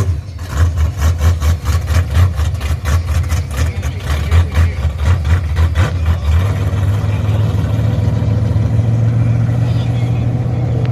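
Car engine and exhaust running with a lumpy, pulsing beat for about six seconds, then settling into a steady low drone.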